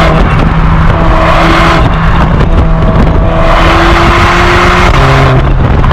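Performance car's engine and exhaust running loud at high, held revs, with the pitch stepping down near the end.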